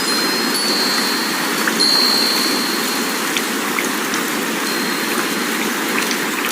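Steady hiss of wind with metal wind chimes ringing a few high, held notes in the first two and a half seconds, then only faintly.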